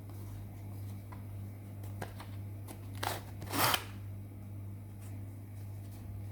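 Handling noises: a few light clicks and two short hissing bursts a little after three seconds in, the second the longer and louder, over a steady low hum.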